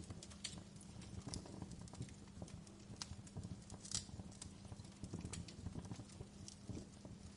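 Fireplace crackling, with irregular sharp pops and snaps over a low, steady rumble.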